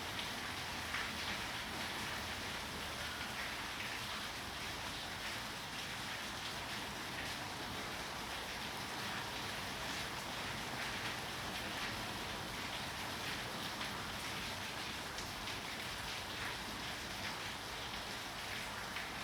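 Steady rain falling, a constant hiss with scattered drop ticks throughout.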